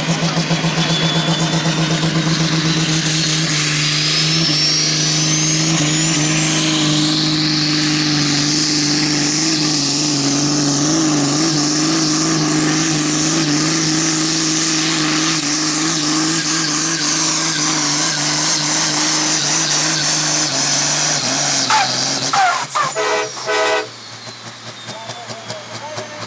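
Super Sport class pulling tractor's engine running flat out during a pull, with a whine that climbs over the first several seconds and then holds. About 22 seconds in the engine stutters and is shut off, and the whine falls away as it winds down.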